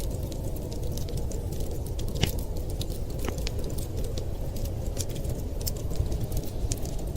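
Wood fire crackling in a fireplace, with irregular sharp pops over a steady low rumble; one pop stands out about two seconds in.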